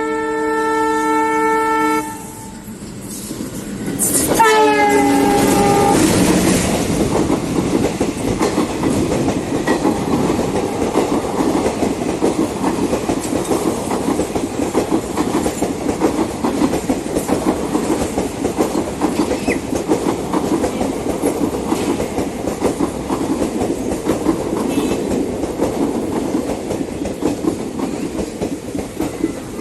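Express train locomotive horn blaring, its pitch dropping as the locomotive passes about four seconds in. Then the coaches run by at speed, the wheels rumbling and clattering steadily over the rail joints.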